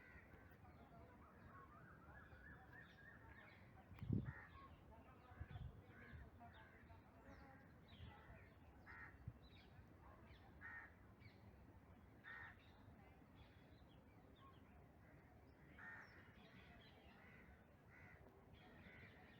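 Faint bird calls, short and repeated every second or two. A low thump about four seconds in is the loudest sound, with a smaller one shortly after.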